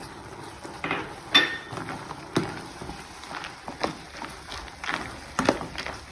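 Spoon stirring crisp fried tapioca chips and grated coconut in coffee-sugar syrup in a pan: irregular scraping clatters, roughly one a second.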